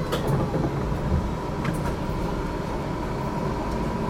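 Inside a moving HTM GTL8 articulated tram: a low rumble of the wheels running on the rails, with a steady faint whine and a few sharp clicks, one near the start and two about a second and a half in.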